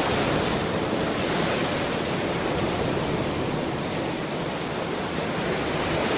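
Ocean surf washing steadily on a shore, an even rush of noise with no single break standing out. It eases a little in the middle and swells again near the end.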